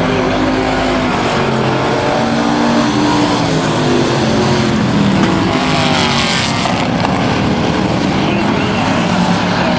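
Several racing trucks' engines running at speed around a short oval, their pitch rising and falling as they accelerate and lift. A louder hissing rush comes about six seconds in.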